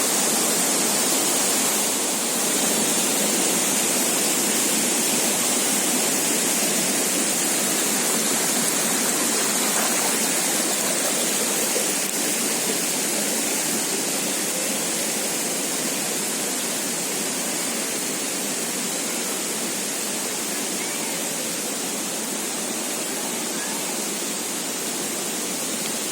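Large waterfall with heavy, fast-flowing water, a steady rushing that eases off slightly about halfway through.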